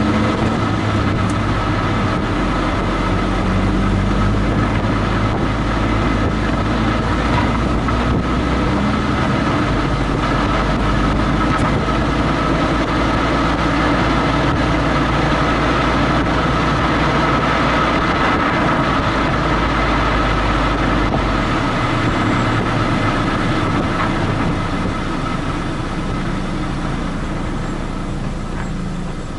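Car being driven on the road, heard from a camera mounted under the rear bumper: steady tyre and road noise with the engine underneath, the low engine note shifting a couple of times and the whole sound easing off about five seconds before the end.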